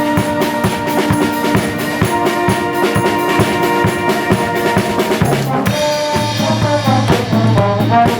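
Live brass band with drum kit playing: a steady drum beat under held brass chords. About five seconds in, the drumming thins out and a low held note enters.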